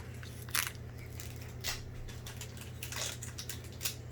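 Trading cards being handled and slid over one another: a few short, soft swishes and rustles over a steady low hum.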